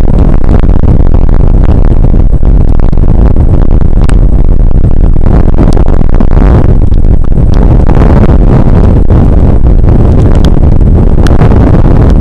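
Loud, steady low rumble of wind buffeting an outdoor microphone, with a few sharp ticks scattered through.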